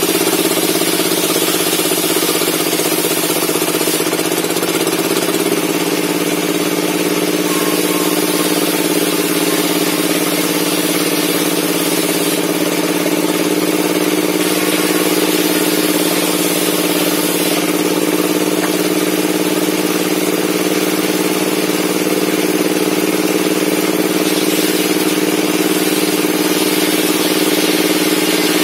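Bench circular saw running steadily: a constant mechanical hum that keeps the same loudness throughout.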